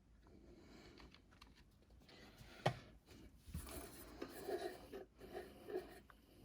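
Faint handling sounds of small parts being worked by hand: light rubbing and clicks, with one sharp knock about two and a half seconds in, then a run of short repeated scratchy strokes.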